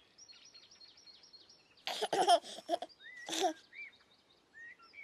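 Birdsong ambience of short chirps throughout, with two bursts of giggling, about two seconds in and again about three and a half seconds in.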